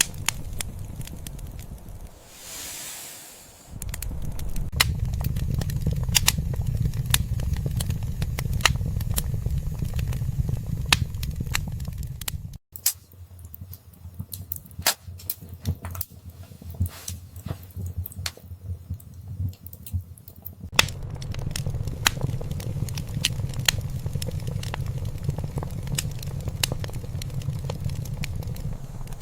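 Wood fire in a fireplace crackling, with frequent sharp pops over a low rumble of flames. The rumble drops away for several seconds in the middle while the pops go on, and there is a short hiss early on.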